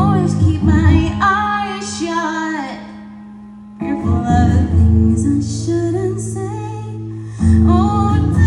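A woman singing live over a strummed guitar. Chords are struck about every three and a half seconds and left ringing under the sung line, with a short break in the singing around the middle.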